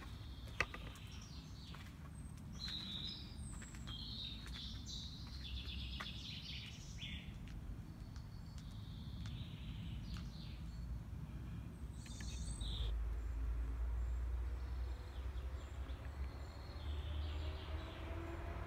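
Small birds singing and chirping in short bursts, busiest in the first half, over a steady low outdoor rumble that grows louder in the second half. A single sharp click about half a second in.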